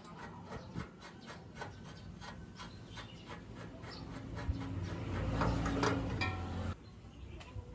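Rhythmic hand rubbing or scraping strokes on a workpiece, about four a second. From about four seconds in, a louder low hum joins them and cuts off suddenly near the end.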